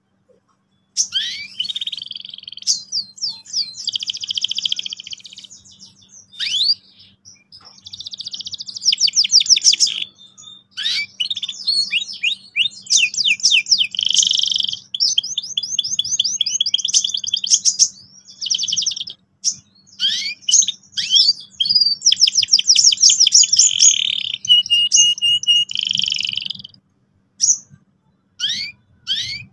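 Domestic canary singing a long, varied song of fast rolling trills, chirps and buzzy phrases, with short pauses between phrases.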